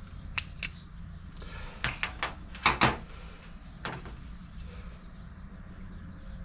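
A string of short clicks and knocks from generator parts being handled during a servo swap, the loudest cluster a little under three seconds in, over a steady low hum.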